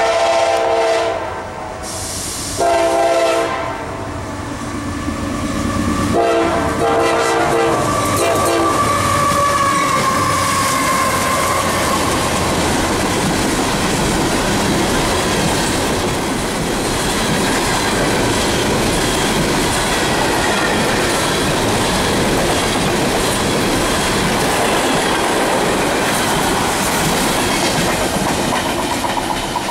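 Approaching freight locomotive's air horn sounding three blasts, the last the longest. Then the train rolls past close by: a steady loud rumble with wheels clacking over the rail joints.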